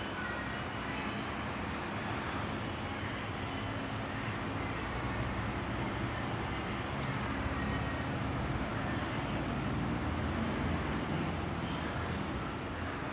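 A steady engine rumble, growing somewhat louder through the middle and easing off near the end.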